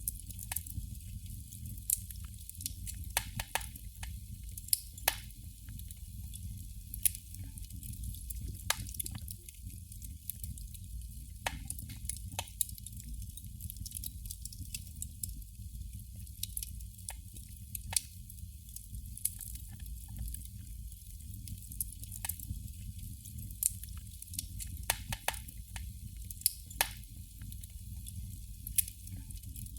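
Candle flame crackling: irregular sharp pops and ticks, a handful of them louder than the rest, over a steady low rumble.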